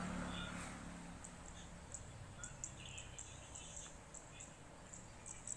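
Quiet outdoor field ambience: faint, short, high-pitched chirps repeat irregularly, over a faint low hum that fades away in the first second or so.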